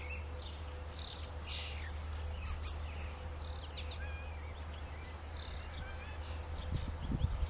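Scattered bird chirps and short squeaky whistled notes from several birds over a steady low rumble, with a few low thumps near the end.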